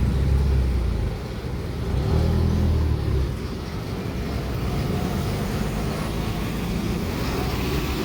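Heavy trucks' engines rumbling as they pass, with two louder low surges in the first three seconds over steady traffic noise.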